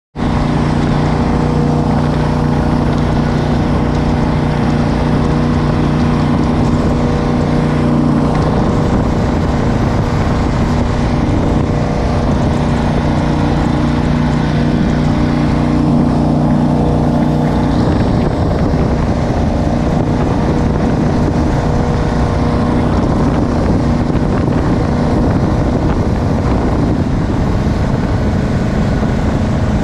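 Jet boat engine running under way, a steady loud drone over rushing water and wind noise, its note shifting a couple of times.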